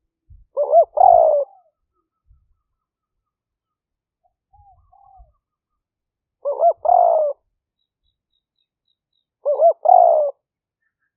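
Spotted dove cooing: three phrases, each a quick pair of short notes run into a longer coo, about a second in, about six and a half seconds in and again near the end, with a faint softer call between the first and second.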